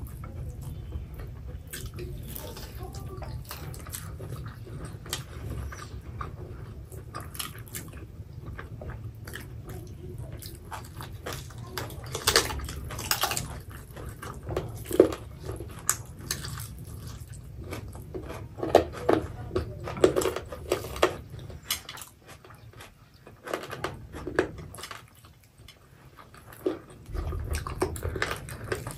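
Close-miked mukbang eating sounds: two people chewing mouthfuls of rice and curry eaten by hand, with many short, sharp wet mouth clicks and bites, thickest and loudest in the middle of the stretch.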